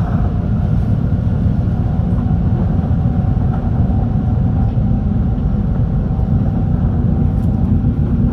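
Shinkansen train running at speed, heard from inside the passenger cabin: a steady low rumble of wheels and track with a faint steady hum above it.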